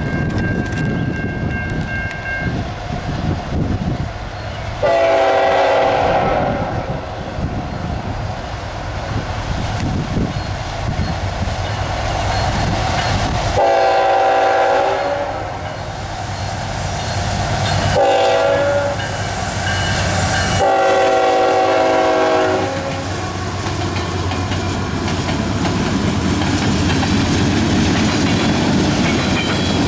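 Freight locomotive's air horn sounding the grade-crossing signal, two long blasts, a short one and a long one, over the rumble of the approaching train. After the horn, the train's steady rumble and clickety-clack of wheels carries on.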